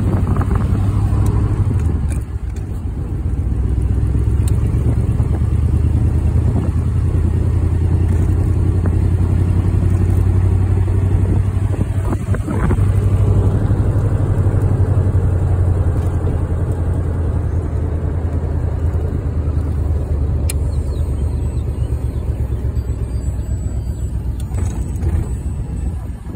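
Hot rod engine with open individual header pipes running under way, a steady deep rumble. The sound dips briefly about two seconds in and again near the middle.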